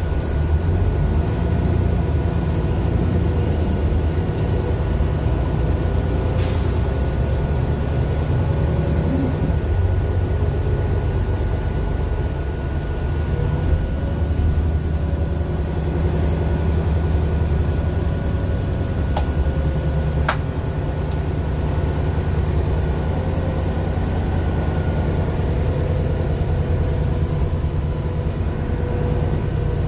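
Mercedes-Benz Citaro LE city bus heard from inside: its Daimler OM 457 hLA inline-six diesel running steadily with a deep rumble while the bus drives, with a faint steady high whine and a couple of brief clicks.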